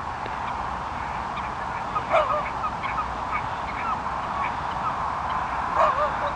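A flock of gulls calling: many short, scattered calls over a steady background hiss, with two louder clusters of calls about two seconds in and near the end.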